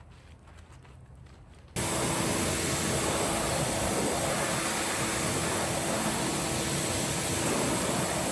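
A loud, steady machine noise, a hiss over a constant hum, starts abruptly about two seconds in and keeps running.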